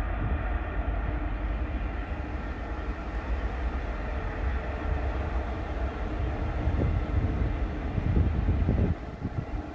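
Passenger train hauled by a ChS7 twin-section electric locomotive rolling past, a steady deep rumble of wheels on rails with a steady hum over it. A run of low knocks comes about eight seconds in, then the level drops.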